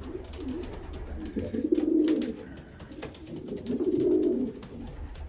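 Racing pigeon cock cooing to his hen at the nest: two low coos, each about a second long, some two seconds apart.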